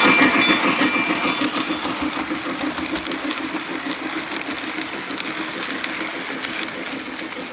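Lionel Legacy Berkshire 2-8-4 model locomotive's sound system: the tail of its Quilling steam whistle dies away in the first second and a half, then rhythmic steam chuffing with motor and track noise runs on, fading gradually.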